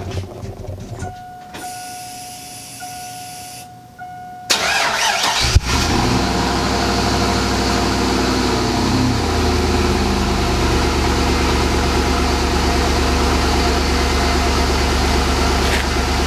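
Cold start of a 2002 Chevy Avalanche's 5.3-litre V8, heard from near the exhaust: after a few seconds of a steady electronic chime, the starter cranks briefly and the engine catches, running at a fast cold idle that drops to a steady idle a few seconds later.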